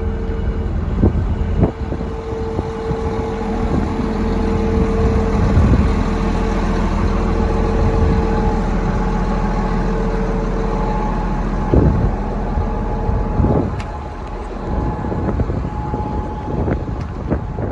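Komatsu D65EX bulldozer's diesel engine running steadily, its hum changing pitch a little partway through, with a few sharp metal knocks and clanks.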